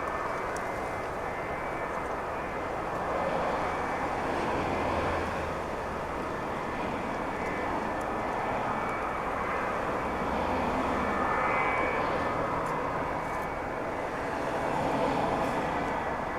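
Jet airliner engines running: a steady rushing noise with a faint high whine, swelling and easing slightly.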